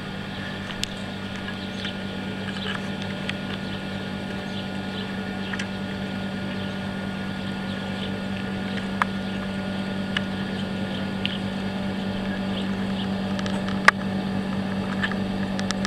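Steady low drone of a passenger train with scattered light clicks, growing gradually louder as the train slowly pulls out of the station. One sharp click stands out near the end.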